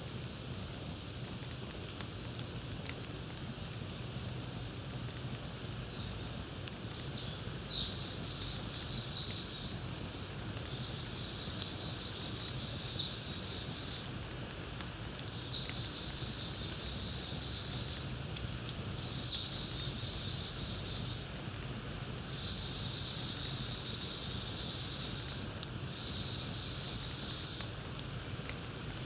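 Campfire crackling steadily with scattered sharp pops. From about seven seconds in, a bird calls over and over: short, sharp falling notes, each followed by a high buzzy trill.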